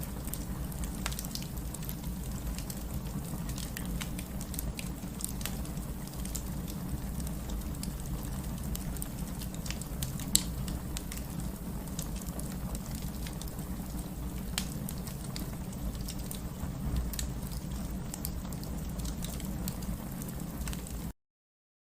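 Fireplace crackling, with scattered sharp pops, over a steady rain hiss. It stops abruptly just before the end.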